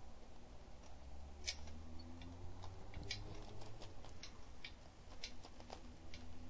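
Light, irregular ticking and clicking from a bicycle while riding, roughly two clicks a second, over a low steady rumble.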